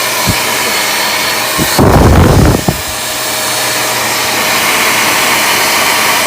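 Deerma DX115C handheld vacuum cleaner motor running steadily with a whine. About two seconds in, a loud low rumble with thumps lasts about a second.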